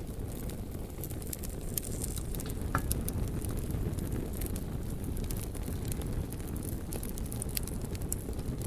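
Wood fire burning: a steady low rumble of flames with many scattered sharp crackles and pops.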